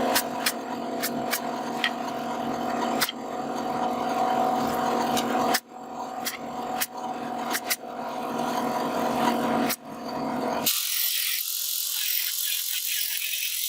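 A woodworking power tool runs with a steady hum, with sharp clicks and knocks scattered through it and a few brief breaks. Near the end it gives way abruptly to a loud, high hissing scrape, like a tool cutting or sanding wood.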